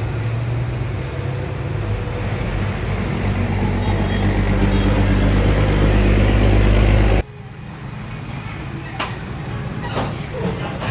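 A heavy truck's diesel engine runs close by, its low drone growing louder for about seven seconds before cutting off suddenly. Quieter road traffic follows, with a few sharp clicks.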